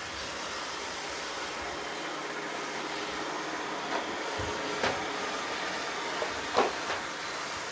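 Roomba robot vacuums running with a steady whir of motors and brushes. A few short knocks come about four, five and six and a half seconds in, the loudest near the end.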